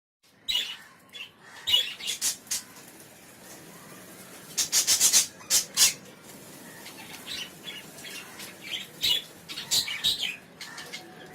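Pet budgerigars chirping and squawking amid quick clicks and rattles from a toy they are playing with. The sounds come in short flurries: about half a second in, around five seconds, and again near the end.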